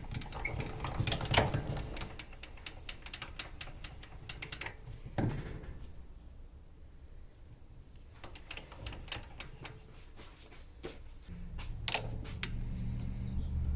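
Irregular light clicks and taps of hard objects, with a short lull in the middle; a low steady hum starts about eleven seconds in.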